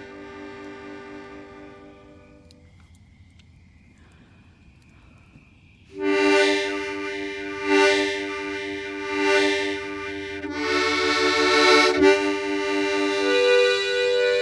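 Harmonica playing sustained chords. A chord dies away in the first few seconds and there is a quiet pause. About six seconds in the playing starts again loudly with pulsing chords that swell and change.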